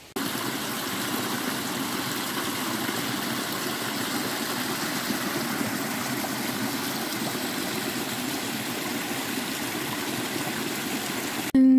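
Running water of a small stream, a steady rush that starts abruptly and cuts off just before the end.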